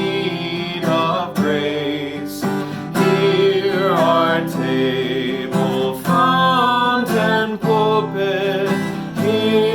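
A hymn sung to acoustic guitar strumming, the voice holding long sustained notes over steady chords.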